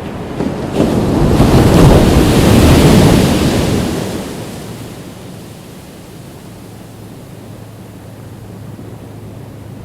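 Ocean waves breaking on a beach: one wave surges up just under a second in, crashes loudest around two to three seconds, then draws back into a quieter, steady wash of surf.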